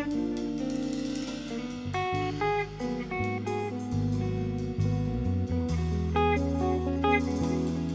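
Instrumental band playing: a guitar picks quick melodic lines over sustained bass notes.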